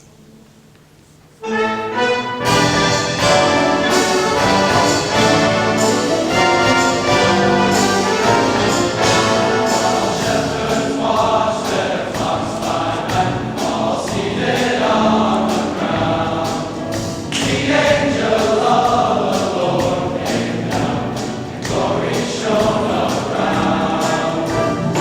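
Choir singing with orchestral accompaniment, coming in suddenly about a second and a half in.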